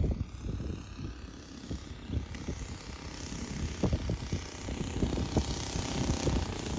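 Propeller-driven RC model aircraft with a 60cc NGH inline twin-cylinder two-stroke gasoline engine running in flight, growing louder from about halfway through. Wind buffets the microphone throughout.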